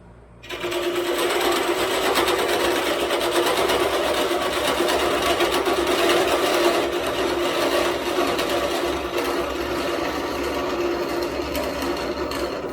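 A machine motor starts abruptly about half a second in and runs steadily with a hum and a fast rattle, easing slightly near the end.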